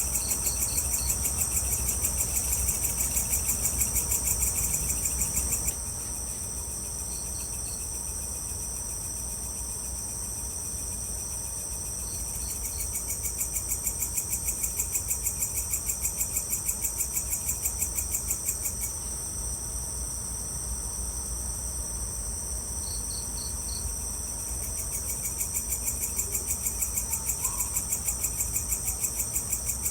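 Evening chorus of crickets and other insects: a steady, high-pitched, fast-pulsing chirring, joined in spells of several seconds by a lower pulsing trill. Short clusters of four quick chirps come every few seconds, over a faint low rumble.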